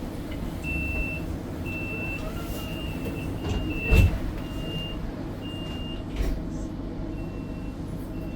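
Electronic warning beeper sounding short, high, even beeps about once a second over the low rumble of a tram. A sharp thump about four seconds in is the loudest sound, with a smaller knock about two seconds later.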